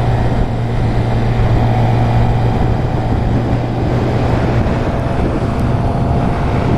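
Suzuki GSX-R 750's inline-four engine running at a steady pace on the open road, with wind rush over the helmet microphone.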